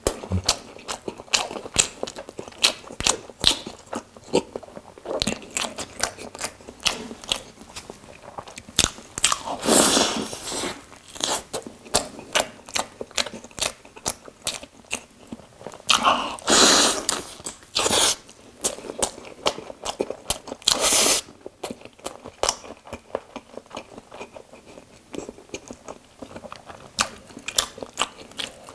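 Close-miked biting and chewing of a toasted ham-and-egg sandwich: wet mouth clicks and smacks throughout, with a few louder, longer crunches.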